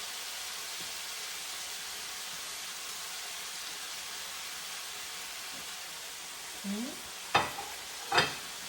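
Chicken thighs frying in vegetable oil in a pan, a steady sizzle. Near the end two sharp knocks about a second apart.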